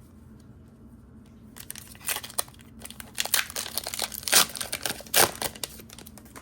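Foil wrapper of a Pokémon trading-card booster pack being crinkled and torn open, in a run of crackly rips with two sharp louder tears near the end.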